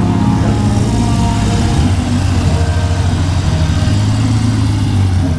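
Motorcycle engine idling with a steady low pulsing hum.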